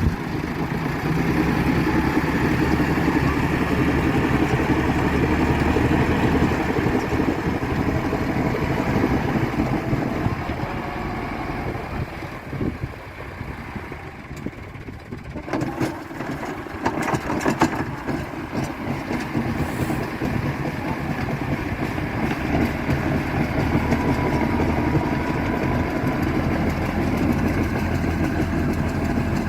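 Tractor engine running steadily, easing off for a few seconds about halfway through, with a few sharp clicks or knocks as it picks up again.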